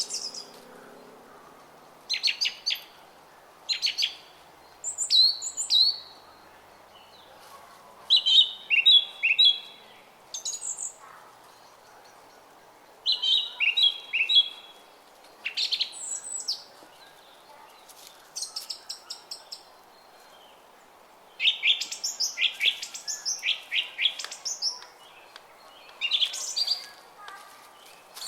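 Songbirds singing short phrases of quick, high chirps, a new phrase every second or two, over the faint steady murmur of a brook.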